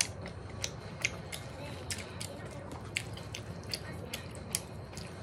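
A person chewing sweet potato pizza close to the microphone, with sharp wet mouth clicks coming irregularly, about two or three a second.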